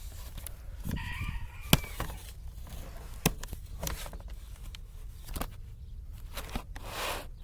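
Scattered sharp clicks and clacks, as of die-cast toy cars and track pieces being handled, with a brief rooster-like call about a second in and a short rushing noise near the end.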